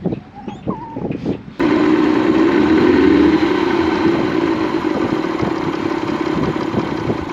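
Small outboard motor running steadily at idle. It cuts in abruptly about a second and a half in.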